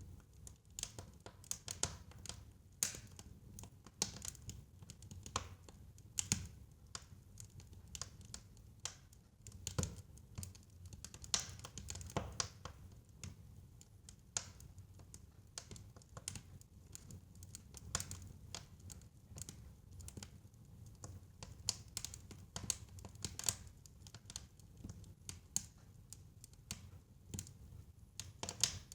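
Wood fire crackling in a fireplace: irregular sharp pops and snaps, a few louder ones, over a low steady rumble.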